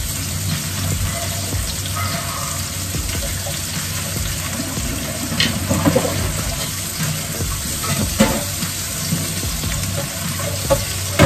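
Food frying and sizzling in a wok, with a few sharp clicks of a spatula against the pan about halfway through and near the end.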